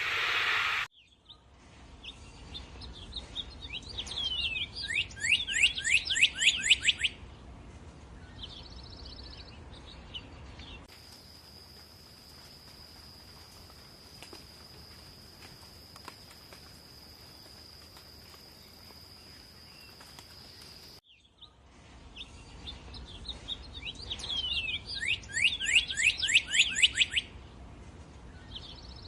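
Bird song: a fast run of downward-sliding whistled notes with thin high notes above, sung twice with a pause between. In the pause, a steady thin high-pitched tone lasts about ten seconds. A short burst of hiss comes at the very start.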